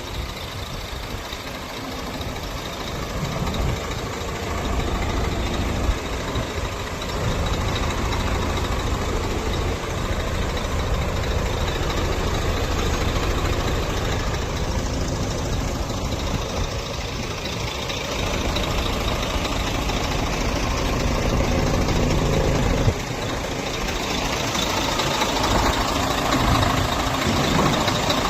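Scania truck's diesel engine running steadily, growing somewhat louder over the last few seconds.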